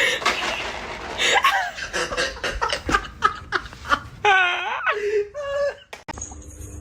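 A person laughing hard in quick repeated bursts, then, about four seconds in, a long high wavering cry followed by a shorter one.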